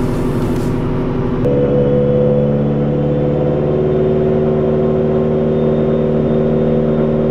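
Subaru EJ257 turbocharged flat-four engine running on a rolling-road dyno. From about a second and a half in it holds a steady speed, with an even tone that neither rises nor falls.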